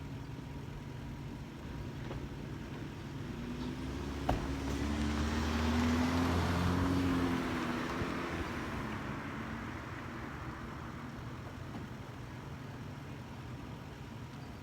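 A vehicle passes by: its engine hum and rumble swell over a few seconds, peak and fade away. A single sharp click comes just before the loudest part.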